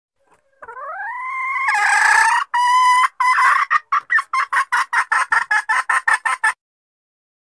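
Female junglefowl (jungle hen) calling: a long note that rises in pitch and holds, a second drawn note, then a quickening run of short clucks, about four a second, that stops suddenly. This is the hen call used as a decoy to lure wild cocks.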